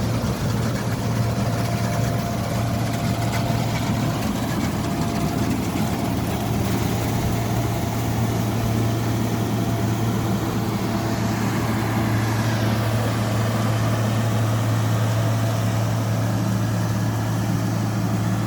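Heavy farm machinery engine running steadily under load, a constant low drone.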